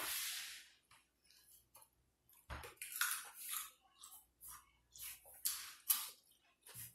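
Close-up eating noises: chewing with short, irregular wet mouth smacks, starting with a breathy hiss.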